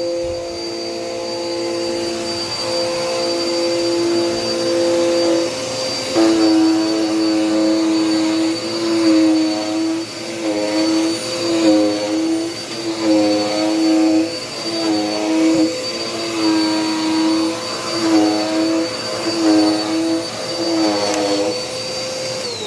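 Dirt Devil Power Max vacuum cleaner motor running with a steady whine. From about six seconds in, its pitch dips and recovers about once a second as it works over the floor. Near the end it switches off and starts winding down.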